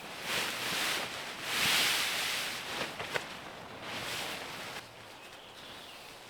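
Rustling and swishing in several swells, with a couple of sharp clicks about three seconds in, dying down to quieter background after about five seconds.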